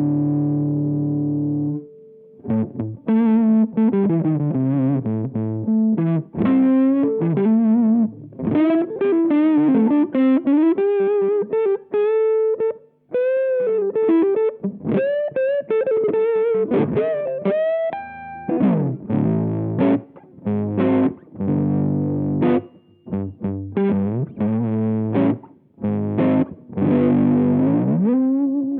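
Electric guitar played through a Rowin LEF-606 fuzz pedal, with a thick distorted tone. A held chord rings out, then single-note lead lines with bends and vibrato, then choppy chords, some of them dipping in pitch and coming back up.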